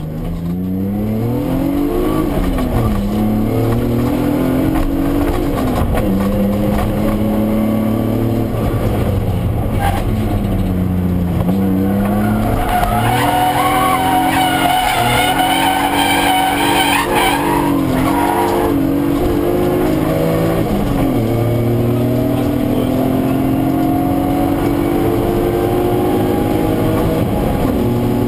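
BMW E36 323ti Compact's 2.5-litre straight-six, heard from inside the cabin, revving up and down repeatedly as the car is driven hard through corners. Tyres squeal through a slide about halfway through, and over the last several seconds the engine climbs steadily in pitch under acceleration.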